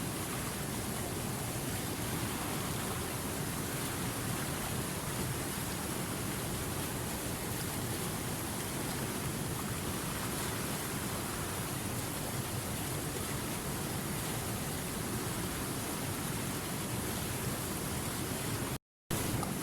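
Running river water: a steady, even rush of flowing water, cut off by a short silent gap near the end before it resumes.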